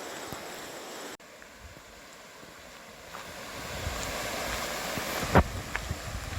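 Rushing mountain-stream water, with wind buffeting the microphone in the second half and a sharp knock about five seconds in.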